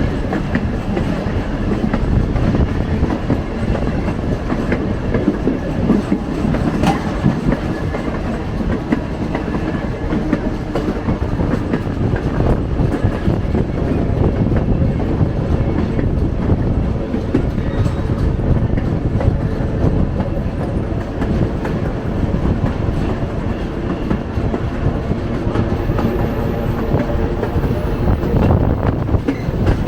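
Passenger train car rolling along at a steady pace: a continuous rumble of steel wheels on rail with clacking over the rail joints.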